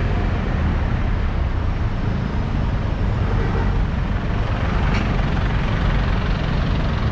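Steady low rumble of road and traffic noise while riding a bike through city streets, with a faint click about five seconds in.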